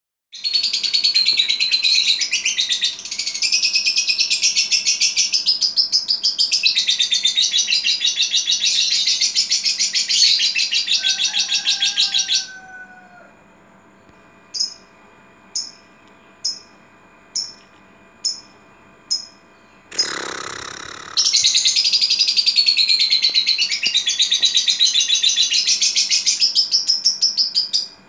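A songbird singing a long, rapid, chattering song high in pitch. About halfway it breaks off into single short chips a little under a second apart, then after a brief rustling rush it goes back into the fast continuous song.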